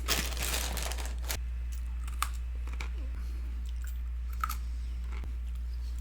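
A person chewing a mouthful of Twinkies cereal that is still crunchy after sitting in milk, loudest in the first second or so and then only a few faint clicks, over a steady low hum.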